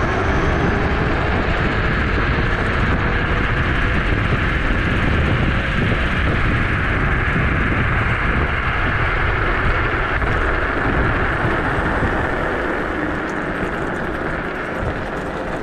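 Electric scooter on the move: a steady rushing of wind and road noise, with a faint whine slowly rising in pitch. It eases off a little near the end.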